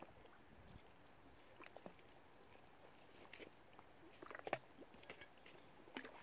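Faint, irregular soft clicks and ticks of waterbirds feeding at the surface, with a short cluster of louder clicks about four and a half seconds in, over quiet background hiss.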